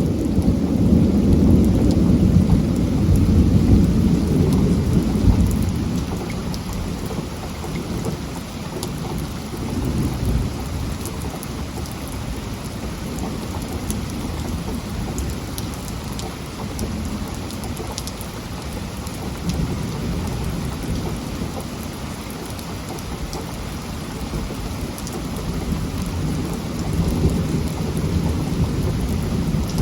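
Heavy rain falling steadily, with thunder rumbling low underneath. The rumble is strongest for the first few seconds, dies down through the middle, and builds again near the end.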